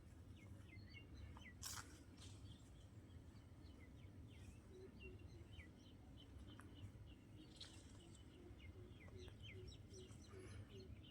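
Faint birdsong: many short, high chirps throughout, joined from about halfway by a low note repeating about twice a second, over a low steady rumble. A single sharp click comes near two seconds in.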